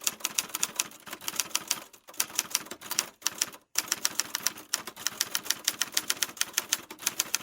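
Rapid typewriter key clicks, several a second in irregular runs, with two brief pauses about two and three and a half seconds in.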